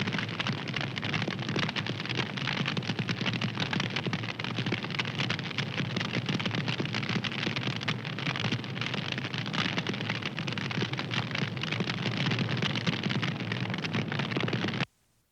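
Fire crackling: a dense run of small pops and snaps over a steady hiss. It cuts out suddenly for about half a second near the end.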